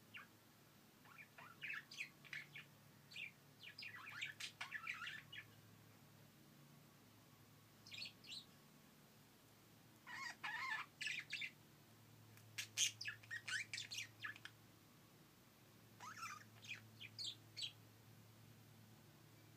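Pet bird chattering in a string of quick, high chirps, coming in about seven bursts separated by short pauses.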